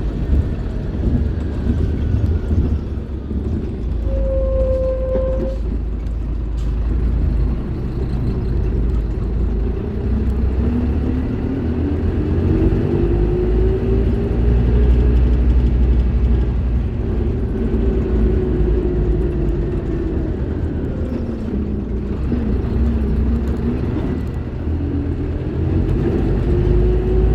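Scania K310IB bus's diesel engine running under way, its pitch climbing as it pulls from about ten seconds in, easing off, then climbing again near the end. A short steady tone sounds once about four seconds in.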